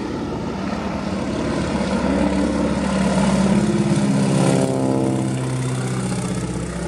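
Boeing Stearman biplane flying past: its piston engine and propeller grow louder, then the note drops in pitch about four and a half seconds in as it passes and moves away.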